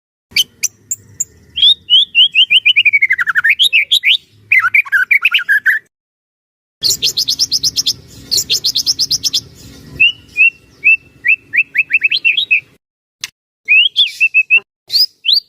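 White-rumped shama (murai batu) singing: rapid runs of short, loud whistled notes, some series sliding down in pitch and others climbing, broken by brief pauses.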